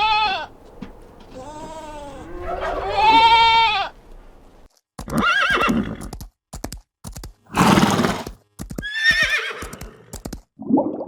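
A run of animal calls: about six drawn-out cries that bend up and down in pitch, separated by short gaps and sudden cut-offs.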